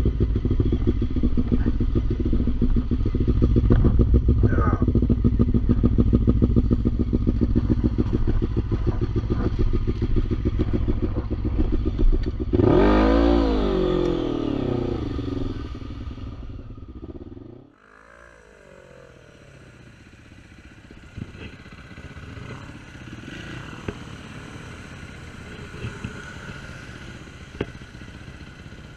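ATV engine running loud and steady close by, then revved hard about twelve seconds in, its pitch rising and falling as it pulls away and fades. After a sudden drop in level, quieter engine sound with a few short revs.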